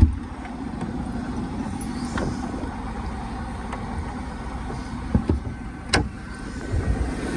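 Buick 3800 Series II supercharged V6 idling steadily in a 1998 Buick Riviera, running smoothly, with a few short sharp knocks about five and six seconds in.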